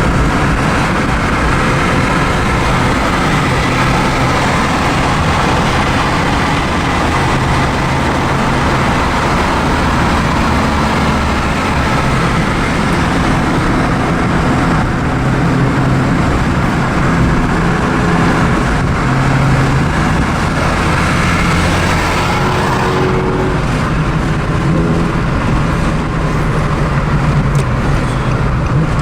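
A car's engine running steadily with road and traffic noise, at an even level.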